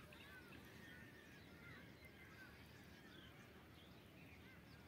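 Faint, scattered bird chirps, many short calls over a quiet background.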